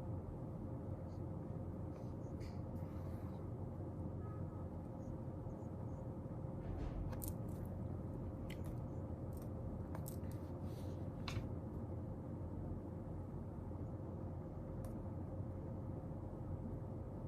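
Steady low room noise with a faint hum, with scattered small clicks and scratches of objects being handled at a desk, most of them between about seven and twelve seconds in.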